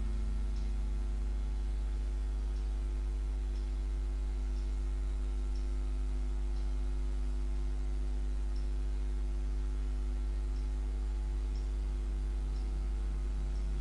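A steady low hum built from many fixed, evenly spaced tones, with a faint tick about once a second.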